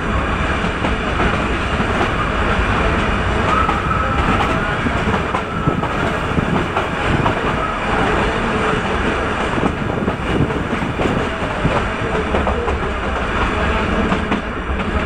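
Nilgiri Mountain Railway toy train running on its metre-gauge track, a steady rumble of the coaches' wheels on the rails heard through an open carriage window.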